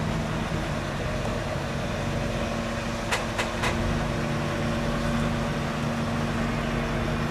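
An engine running steadily at a constant speed, with three sharp clicks a little after three seconds in.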